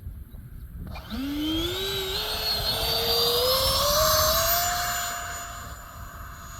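E-flite Habu SS electric ducted fan on 6S power, a jet-like whine with a high shrill overtone. From about a second in it climbs steadily in pitch as the throttle comes up. It is loudest about four seconds in, then holds its pitch and grows quieter near the end.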